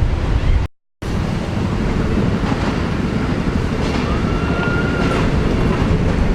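Wind buffeting the microphone over a steady outdoor rumble, broken by a brief dropout near the start. About four seconds in, a faint tone rises and falls once over about a second.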